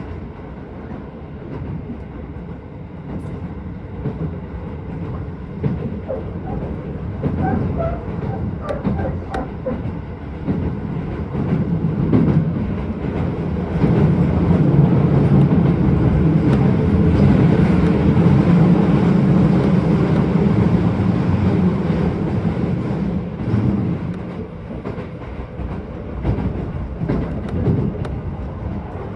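Keisei 3000 series electric commuter train running at speed, heard from inside the passenger car: a steady rumble of wheels on rail with scattered clicks of rail joints. It grows louder through the middle and eases off near the end.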